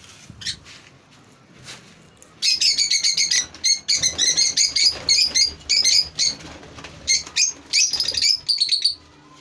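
A flock of lovebirds chattering in rapid, shrill bursts of chirps, starting about two and a half seconds in and stopping shortly before the end, with light rustling underneath.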